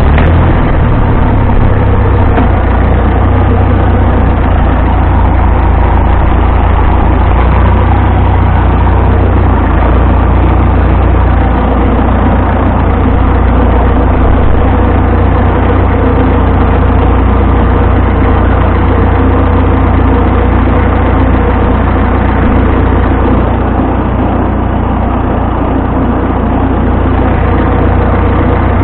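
Vintage farm tractor engine running loud and steady, close by.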